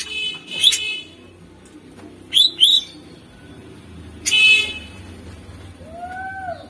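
Greater green leafbird (cucak ijo) singing in separate phrases: harsh, scratchy bursts and a pair of sharp chirps a second or two apart, with a short rising-and-falling whistle near the end.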